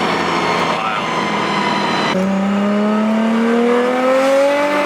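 Nissan GT-R engine under hard acceleration: after a couple of seconds at steady pitch, the revs climb steadily through a gear, then drop sharply at the end as the next gear goes in.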